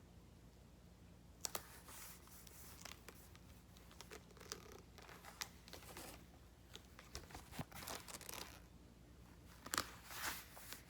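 Crafting handling noises: paper and card being handled and torn in short, scattered rustles, quiet, over a low steady hum.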